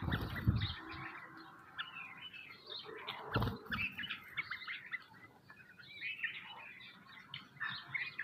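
Small birds chirping: a busy run of short, overlapping chirps and calls, with a few low thuds near the start and again about three and a half seconds in.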